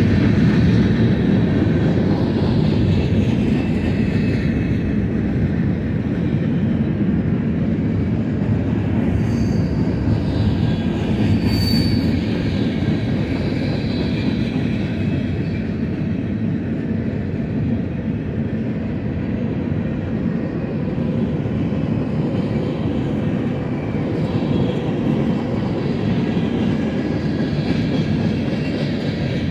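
Freight cars of a Union Pacific manifest train rolling past on the near track: a steady, loud rumble of steel wheels on rail, with faint high wheel-squeal tones drifting through it and a brief sharper squeal about twelve seconds in.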